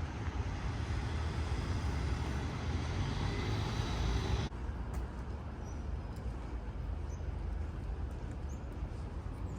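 City street traffic: a steady low rumble of passing vehicles with tyre hiss, the hiss louder over the first half and dropping away suddenly about halfway through.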